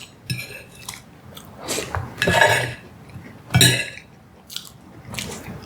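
Close-miked eating sounds: a spoon clinking and scraping against a plate while pie is cut and eaten, with bites and chewing between the strokes.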